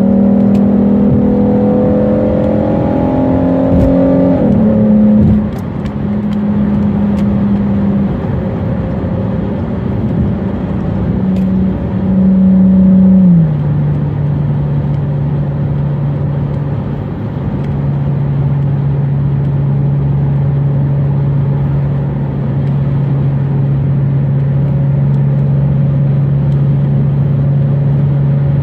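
A Dodge Charger's V6 engine heard from inside the cabin under highway acceleration over steady road noise. The engine note climbs and drops at an upshift about four seconds in. It swells again around twelve seconds and drops at another shift about a second later, then holds a steady, lower cruising drone.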